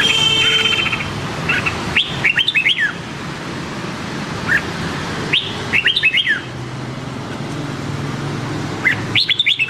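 Red-whiskered bulbul singing three short phrases of quick whistled notes: about two seconds in, around five and a half seconds, and again at the end. A brief layered tone sounds at the very start.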